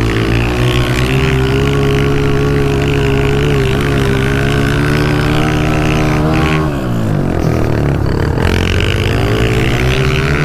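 Honda CRF125 pit bike's single-cylinder four-stroke engine running hard at high revs, dropping off sharply about six and a half seconds in and then revving back up.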